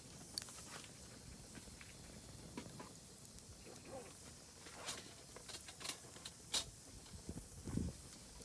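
Oak firewood burning in a campfire, crackling with scattered sharp pops, the loudest about two-thirds of the way in, and a soft low thump near the end.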